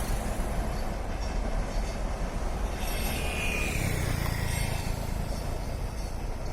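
Express passenger train rolling along the rails with a steady rumble, a brief high wheel squeal coming in about three seconds in as the wheels take the curve.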